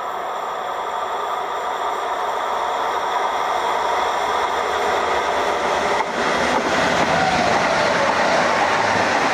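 Electric passenger train approaching on overhead-wired track, its running noise rising steadily as it nears. About six seconds in, the sound changes suddenly to the louder noise of a passenger train passing close by on the rails.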